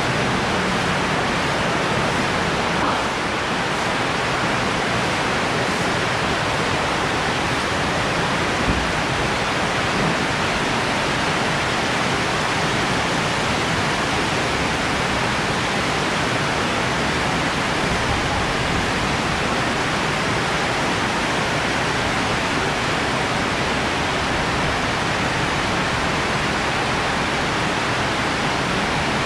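Heavy rain falling on the roof overhead, a steady hiss.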